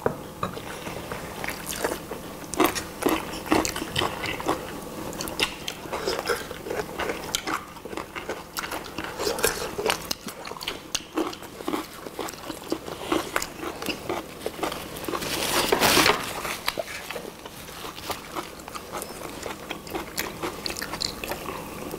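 Close-miked eating: several people biting and chewing grilled chicken drumsticks, with many short wet smacks and crunchy bites. A brief louder noise comes about three-quarters of the way through.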